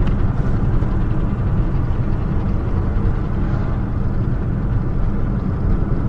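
Steady rumble of a car's road and engine noise heard from inside the cabin while driving.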